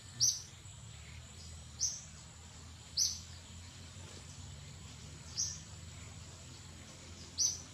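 A bird in the forest giving short high chirps, repeated about every one to two seconds, over a faint steady high thin tone.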